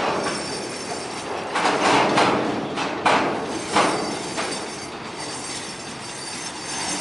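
Railroad cars rolling past, their wheels clacking over the rail joints, with several louder metallic clanks and knocks in the middle.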